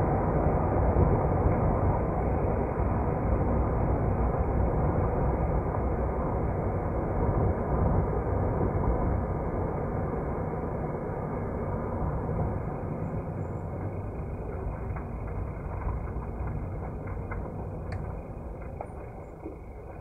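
A train running, its steady noise slowly fading away, with a few faint clicks near the end.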